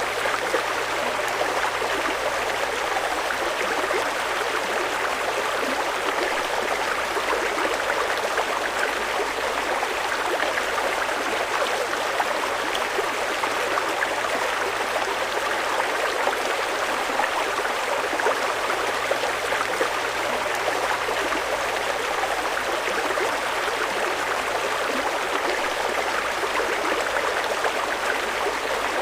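Fast-flowing mountain river rushing steadily over its bed, an even watery roar of churning water with no breaks.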